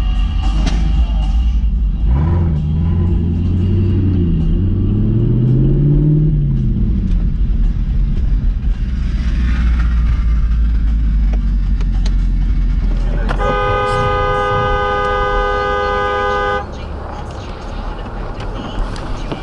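Vehicle driving, with a heavy low engine and road rumble. A car horn sounds one steady blast of about three seconds near the end, and the rumble then drops.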